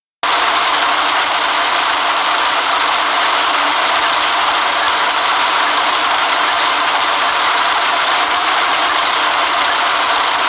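City bus in motion heard from inside the cabin: a steady hiss of engine and road noise with rattling.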